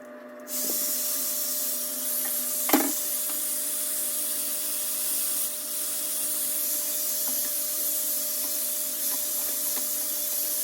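High-speed hot-air drying brush switched on about half a second in, then blowing steadily: a rushing of air over a steady motor whine. A single sharp knock about three seconds in.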